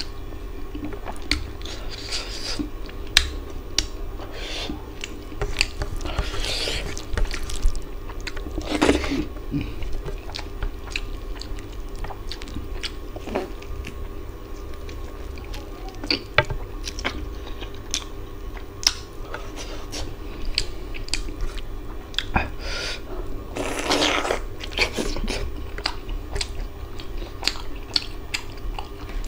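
Close-up chewing of a mouthful of mutton curry and rice, with frequent short wet clicks and a couple of longer, noisier stretches of eating about six and twenty-four seconds in. A faint steady hum runs underneath.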